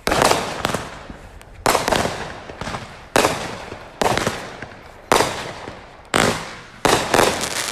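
Fireworks going off: a string of sharp bangs, about one a second, each followed by a fading crackle.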